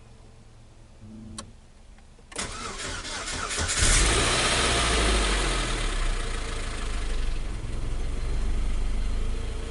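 Saturn Ion's freshly rebuilt four-cylinder engine starting for the first time: a click from the ignition, then about a second and a half of cranking before it catches, revs up and settles to a steady idle.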